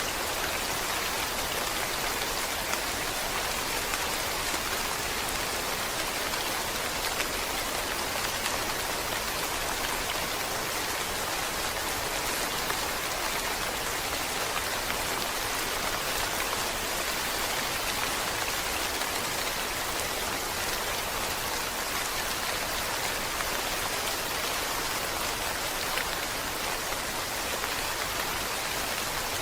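Steady rain falling, a dense even hiss of many drops with faint individual patters.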